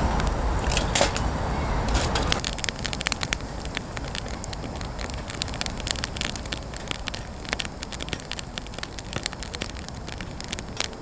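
Wood campfire crackling, with many sharp pops and snaps. For the first two seconds or so a louder rushing noise lies under the crackle, then it drops away and the crackling carries on alone.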